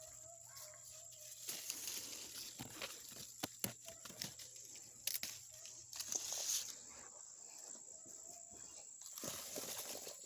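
Grapevine leaves and stems rustling and crackling as grapes are picked by hand, with a few sharp snaps, over a steady high-pitched whine.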